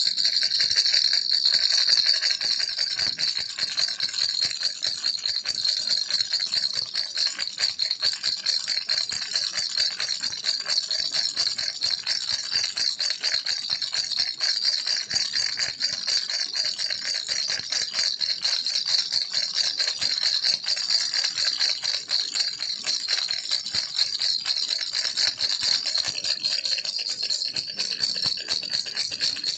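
Baby's toy rattle shaken continuously, a dense, fast, steady stream of small bead clicks.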